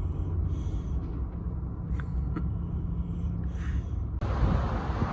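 Storm wind buffeting a parked camper van, heard from inside: a steady low rumble, with a strong gust coming in suddenly about four seconds in and staying loud.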